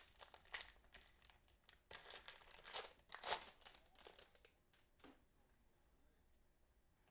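Cellophane trading-card pack wrapping crinkling and rustling as football cards are handled, in irregular bursts that die away about five seconds in.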